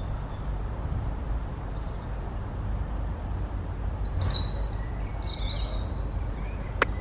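A songbird singing one short, quick phrase of high notes that climb and then fall, about four seconds in, with a faint high note earlier, over a steady low rumble. A sharp click comes near the end.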